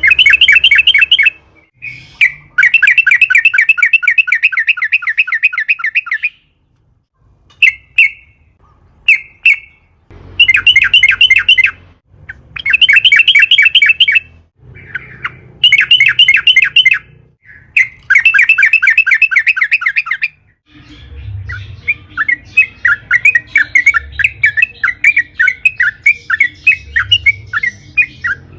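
Yellow-vented bulbul (trucukan) singing: repeated bursts of fast, bubbly rolling notes, each a second or a few seconds long with short pauses between, running into a longer unbroken stretch of rapid chattering notes in the last third.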